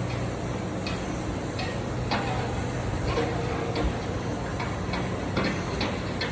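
Swimming-pool heat pump running with a steady low hum from its compressor and fan, with scattered light clicks and taps on top.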